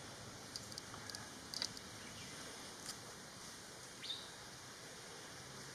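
Faint forest ambience with scattered short, high bird chirps: a cluster about a second and a half in, and a sharper rising note about four seconds in.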